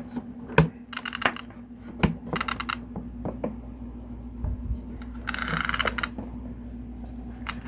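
Light clicks and taps from handling a 1/10 scale RC rally car as its body latch is turned and the Lexan body is freed to pivot up, with a short rasping scrape about five seconds in.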